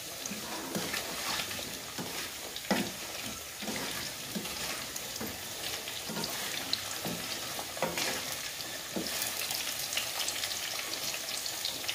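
Sweet potato wedges sizzling and crackling in hot oil with sugar melting in the pan, as a wooden spatula stirs them, knocking against the pan a few times. This is the sugar-melting stage of kamote cue, where the sugar dissolves to coat the frying wedges.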